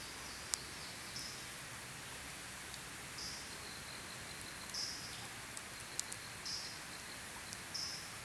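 Campfire crackling, with a few sharp pops over a steady hiss. A short, high, raspy call, likely from an insect or bird, repeats about every second and a half.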